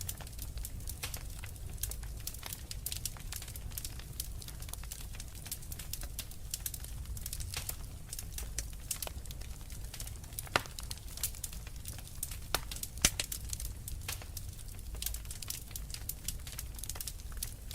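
Wood fire crackling in a fireplace: a dense run of irregular small pops and snaps over a low steady rumble, with two louder pops about ten and thirteen seconds in.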